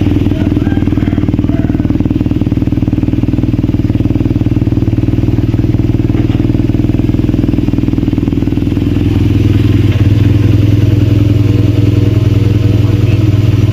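BMW R nineT's 1170 cc air/oil-cooled boxer twin idling steadily, getting a little louder about nine seconds in.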